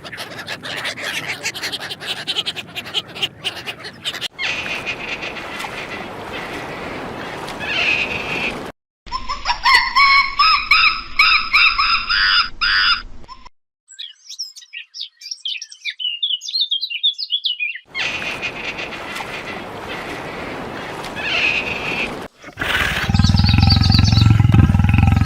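A run of short animal-sound clips cut one after another: bird chirps and calls, with a loud, low-pitched animal call starting near the end.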